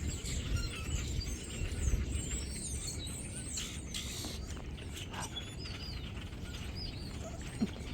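A large flock of birds chirping and calling at once, many overlapping high chirps, over a steady low rumble of strong wind buffeting the microphone.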